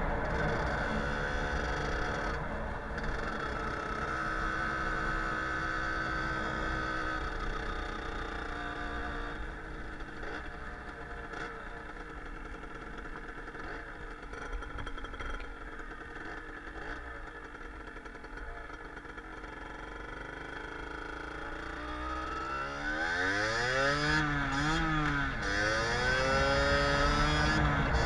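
Cagiva Supercity 50's 50 cc two-stroke engine under way, running at a steady pitch, then quieter at lower revs for a long stretch. About two-thirds through it revs up and down a few times with gear changes, then climbs again near the end.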